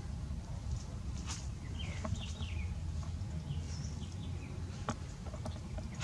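Faint short bird chirps, a few sliding calls about two to three and a half seconds in, over a low steady rumble, with scattered light clicks.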